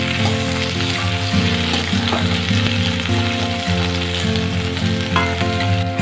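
Spiny gourd slices sizzling as they fry in oil in a metal kadai, turned with a spatula, over background music with changing held notes.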